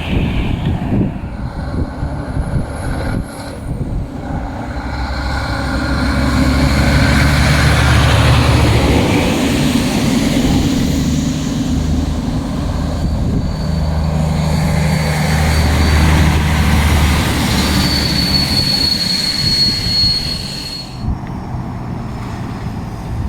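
Heavy diesel truck passing close, its engine rumble building to a peak and holding before easing off. A thin, high squeal sounds for a few seconds near the end.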